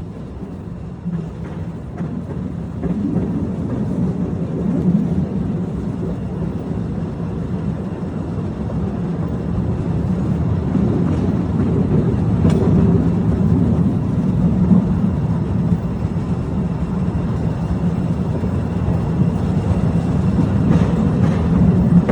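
Postojna Cave tourist train running along its track: a steady low rumble that grows gradually louder, with a few sharp clicks from the wheels and cars.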